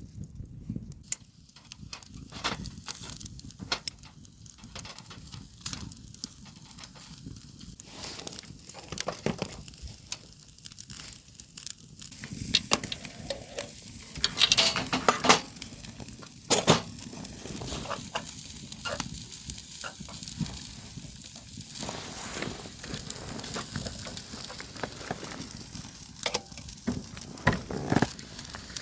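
Food sizzling as it fries, with scattered clicks and taps of utensils, and a few louder clatters.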